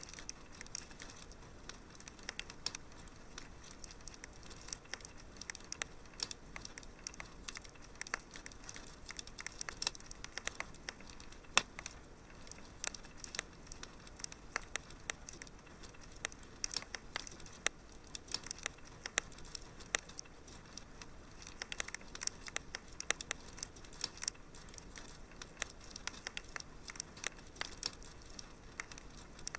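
Wood fire crackling, with frequent irregular small pops and snaps over a faint steady hiss.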